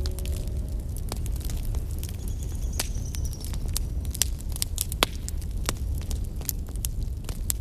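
Wood fire crackling, with sharp pops and snaps at irregular intervals over a steady low rumble. A faint high whistle rises briefly about two to three seconds in.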